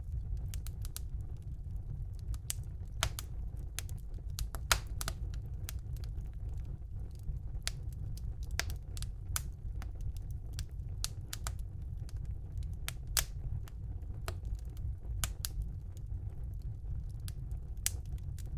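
Wood fire burning in a fireplace: a steady low rumble of flames with irregular sharp crackles and pops from the burning logs, a few louder pops standing out.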